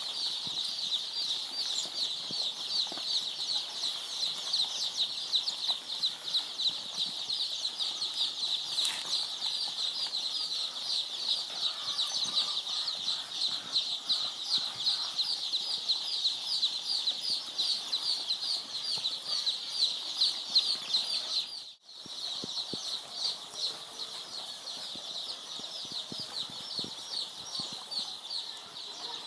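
A large flock of day-old layer chicks peeping nonstop, a dense chorus of high, short chirps, with one brief break about two-thirds of the way through.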